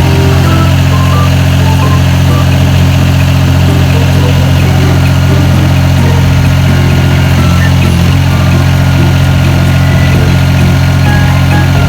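HAIHONG 1.2-ton mini excavator's engine running steadily at idle.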